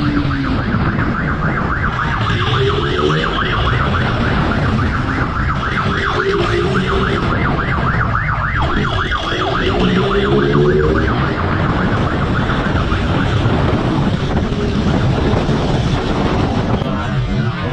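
Police siren sounding a fast warble over a steady low rumble of vehicle engine and wind noise.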